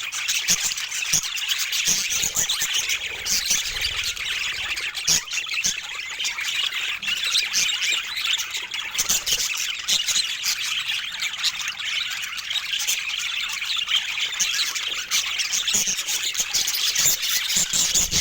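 Budgerigars chattering and chirping steadily, a dense run of quick, high squeaky notes with no breaks.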